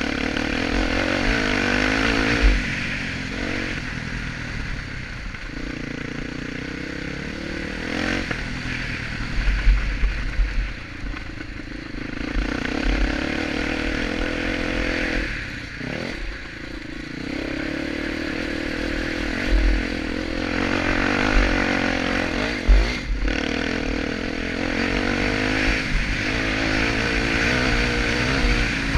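Honda XR250 Tornado's single-cylinder four-stroke engine running under varying throttle, its revs rising and falling all the way through. Low thumps come and go over the engine.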